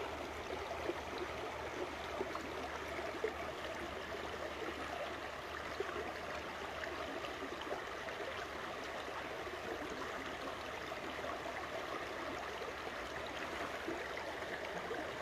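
Timiș river flowing: a steady rush and babble of water with small splashes.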